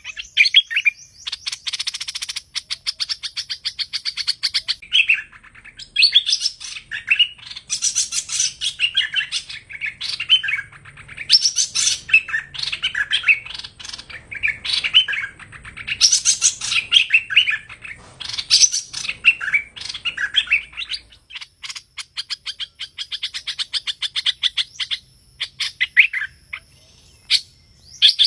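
Recorded song of the songbird sold in Vietnam as the 'hoành hoạch thơm', a lure call for trapping it: a rapid, varied run of chirps, whistled notes and trills. The song goes softer and sparser about three quarters of the way through, then picks up again.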